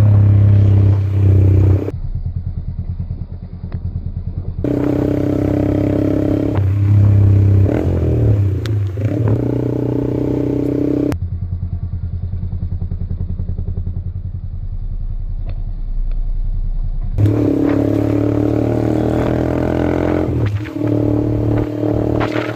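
Yamaha MT-15's single-cylinder engine running loud through an Austin Racing aftermarket exhaust. It alternates between loud stretches with revs rising and falling and two quieter spells with an even, low pulse near idle.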